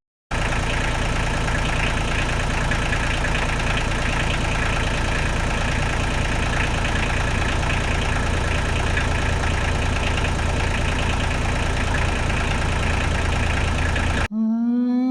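Kubota KX91-2 mini excavator's diesel engine idling steadily, cutting in abruptly just after the start and cutting off about a second before the end.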